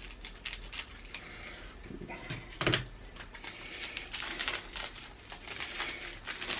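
Trading cards being handled: light clicks and rustles of cards being flicked and slid against one another, with a louder rustle about two and a half seconds in.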